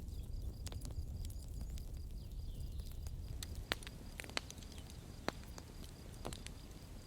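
Campfire crackling: scattered sharp pops and snaps of burning wood over a low, steady rumble, with a few louder pops in the middle.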